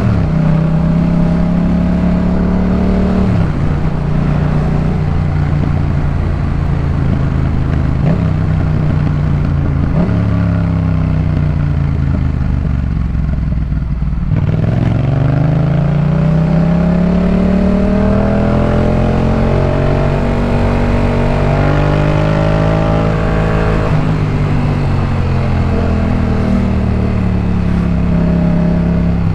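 Yamaha MT-07's 689 cc parallel-twin engine running through a Jeskap K4 full exhaust while riding, its pitch stepping and gliding as the throttle and gears change. About halfway through, the pitch falls low, then climbs steadily under acceleration for several seconds before dropping back and running steadier near the end.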